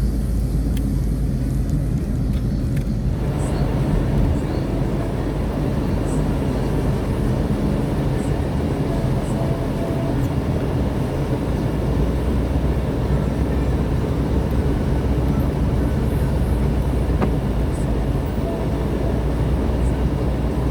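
A car being driven, heard from inside: a steady low engine and road rumble. About three seconds in, a broader rushing noise comes in and stays.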